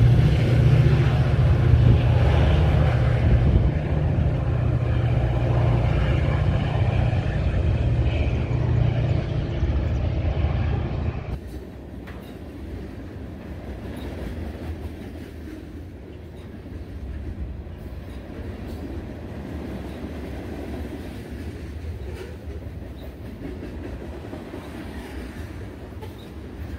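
Diesel locomotive of an approaching Metra commuter train working hard, a loud, steady low drone. About eleven seconds in it cuts off abruptly to the quieter rumble of passenger trains rolling past, their wheels clicking over the rail joints.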